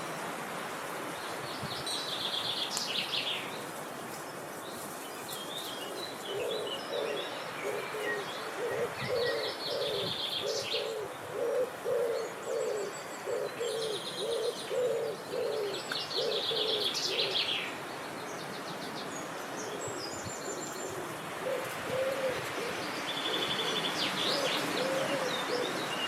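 Birdsong: songbirds singing short, high trilled phrases again and again, while a lower-voiced bird repeats a quick run of short hooting or cooing notes for about ten seconds and again near the end, over a steady rushing background.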